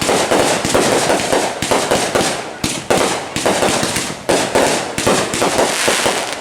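Consumer fireworks going off in a dense, continuous barrage of rapid bangs and crackling.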